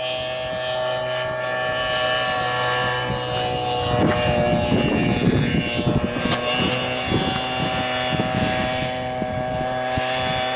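RC model Mirage jet's engine running with a steady high tone, joined about four seconds in by irregular low crackling. The engine is sputtering, which the onlookers put down to a mixture that is either too rich or too lean.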